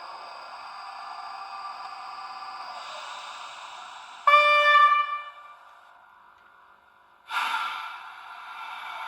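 Sound decoder of a Roco model ÖBB 1044 electric locomotive playing through its small speaker: a steady running hum, then a short, loud horn blast about four seconds in that fades away. Near the end a sudden hissing burst comes in and settles back into running sound.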